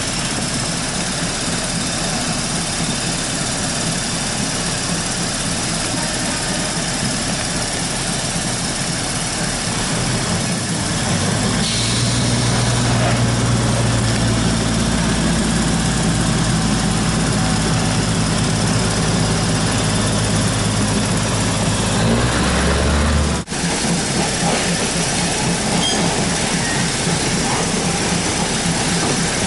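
Train running noise heard from inside the carriage, a steady rumble. A low droning hum joins about ten seconds in and cuts off abruptly about two-thirds of the way through.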